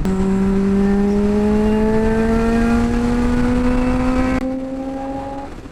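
Honda CBR600RR inline-four with a Yoshimura slip-on exhaust, pulling steadily under throttle, its pitch climbing slowly and evenly as the bike accelerates through a gear. Near the end the throttle closes and the engine note drops away.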